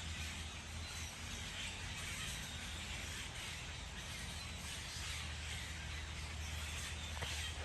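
Steady outdoor background noise: an even hiss over a low hum.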